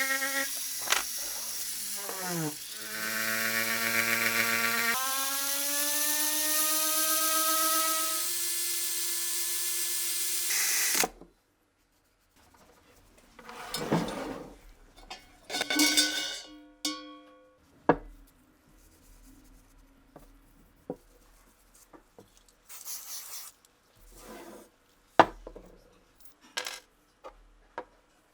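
Small electric power tool motor running, its pitch dropping as it slows about two seconds in and then climbing again as it speeds up, before it cuts off suddenly. After that come scattered light clicks and knocks of small metal parts being handled.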